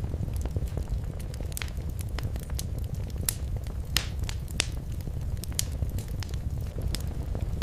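Wood fire crackling in a fireplace: irregular sharp pops and snaps over a steady low rumble of flames, with a louder pop about four seconds in.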